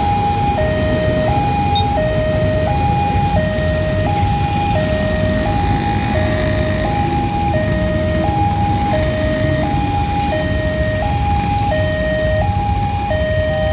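Railway level-crossing warning alarm sounding a two-tone pattern, switching between a lower and a higher tone about every three quarters of a second, over a steady low rumble.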